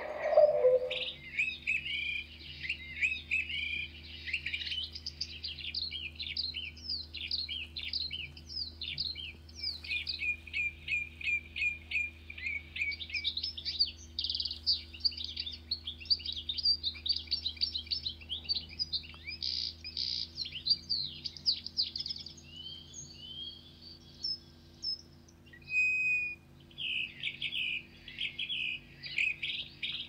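Birds chirping and twittering in quick runs of high notes, with a brief lull and a single held whistle near the end before the chirping resumes.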